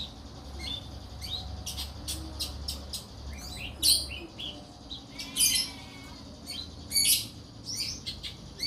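Young long-tailed shrike (pentet), about four months old, calling in a rapid run of short, high chirps and twitters, with a few louder bursts. A faint low hum sits underneath for the first half.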